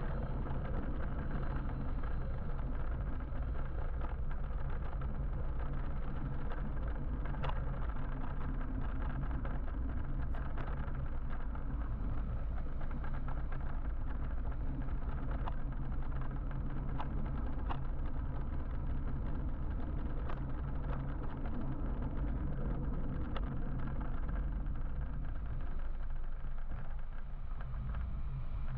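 Steady traffic and road noise heard from a moving electric motorbike, with a low wind rumble on the microphone and faint scattered ticks.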